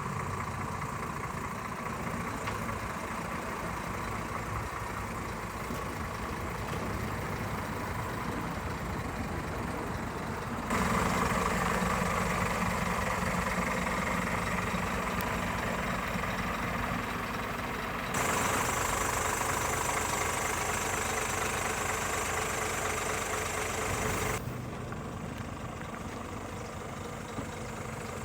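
Scania R500 timber truck's V8 diesel engine idling steadily. The tone and loudness change abruptly about 11, 18 and 24 seconds in, as the recording cuts between takes.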